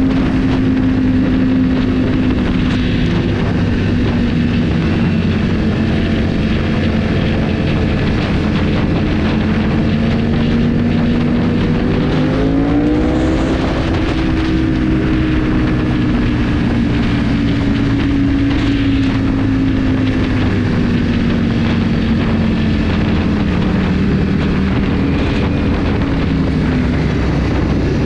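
Motorcycle engine running steadily under way, with wind and road noise. About twelve seconds in, the engine note rises sharply as the throttle opens, then falls slowly as the bike eases off.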